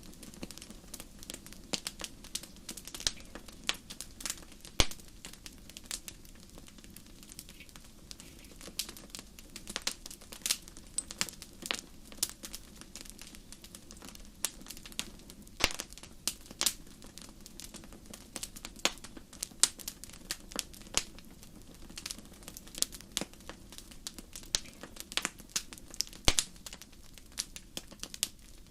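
Wood fire crackling and popping steadily: irregular sharp snaps, some louder than others, over a low steady burning hum.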